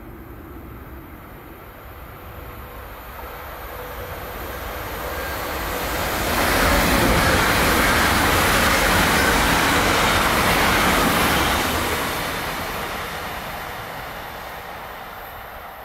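Two coupled Talent 2 (class 442) electric multiple units passing at speed, a swelling rush of wheels on rail and air. It builds up, holds loudest for about six seconds in the middle, then fades as the train recedes.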